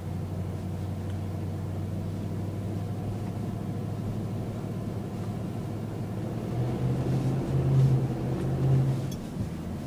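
Dodge Durango's Hemi V8 engine running steadily while driving on beach sand, with the engine note rising and growing louder from about two thirds of the way in, then easing back near the end.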